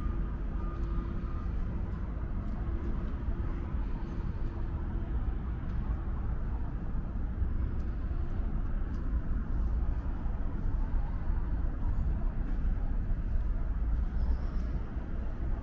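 Steady low outdoor city background rumble, with a faint steady hum that fades out over the first couple of seconds.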